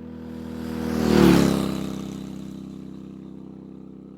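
A vehicle drives past on the road, approaching and going away, loudest about a second in, its engine note dropping as it passes. A steady engine idle runs underneath.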